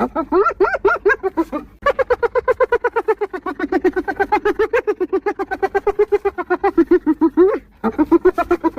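Spotted hyena laughing: rapid runs of short, pitched giggling whoops, about seven a second, in three bouts with brief breaks about two seconds in and near the end.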